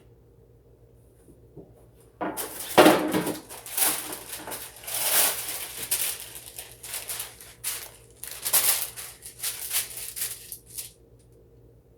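Parchment paper being pulled off its roll, crinkling and tearing in an irregular run of rustles that starts about two seconds in and stops near the end.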